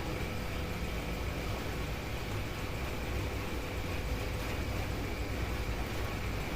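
Steady rushing noise with a low rumble and a faint steady hum underneath, unchanging throughout.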